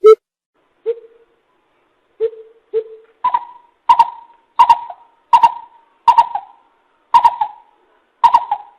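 Coucal (bìm bịp) calling: three deep, spaced hoots, then a run of seven higher hoots about a second apart.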